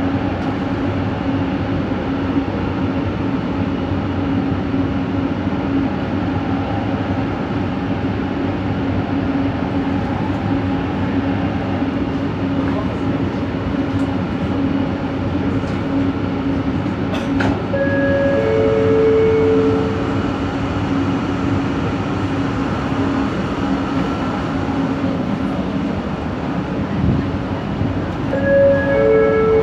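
Inside a moving light rail train coach: a steady running rumble with a constant low motor hum, the odd motor noise the rider traced to this coach. Brief higher tones sound about 18 seconds in and again near the end.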